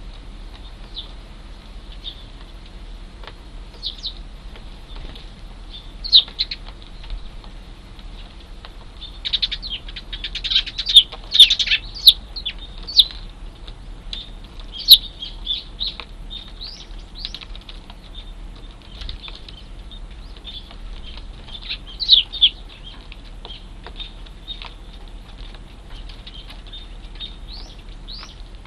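Young Eurasian tree sparrows chirping repeatedly in short, high calls, with a dense, loud flurry of chirps about ten seconds in and another brief cluster around twenty-two seconds.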